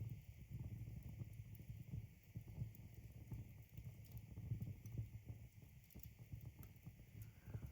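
Logs burning in a fireplace: a faint, uneven low rumble of the flames with scattered small crackles and ticks.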